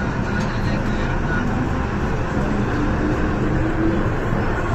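MTR M-train electric multiple unit running, heard from inside the carriage: a steady rumble of wheels and running gear with a faint tone that rises in pitch around the middle.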